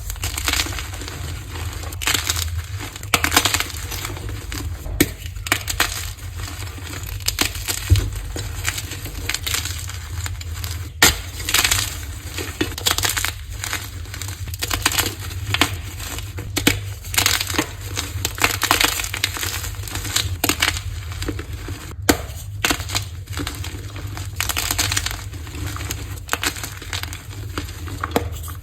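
Blocks of dyed gym chalk being crushed, a dense run of irregular crumbling crunches with a couple of abrupt breaks where the clips are cut together. A steady low hum runs underneath.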